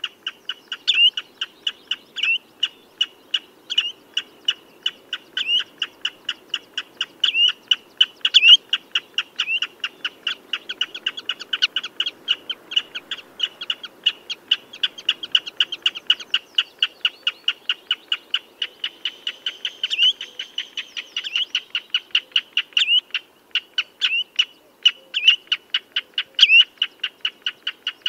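Common redshank calling: a fast, unbroken run of short piping notes, several a second, with louder notes standing out every second or two.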